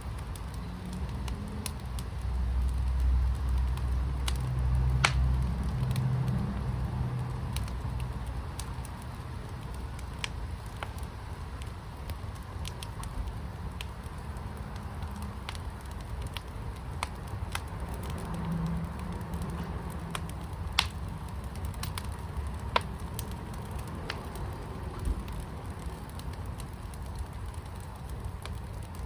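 Wood fire in a fire pit crackling steadily, with scattered sharp pops, a few louder ones in the second half. A low rumble swells for a few seconds early in the stretch, then fades.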